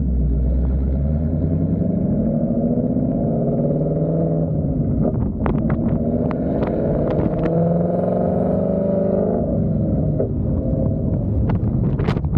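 Whipple-supercharged 5.0 Coyote V8 of a 2024 Ford Mustang Dark Horse, running through a Corsa Extreme cat-back exhaust in normal mode at easy driving speed. The exhaust note rises and falls gently in pitch. Scattered sharp clicks come about halfway through and again near the end.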